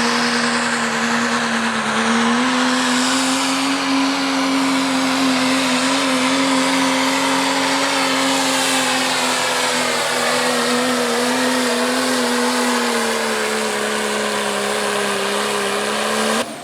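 Heavily modified pulling diesel pickup engine running at full throttle under load through a sled pull. Its pitch steps up about two seconds in, holds steady, and sags a little as the load builds near the end, then cuts off abruptly.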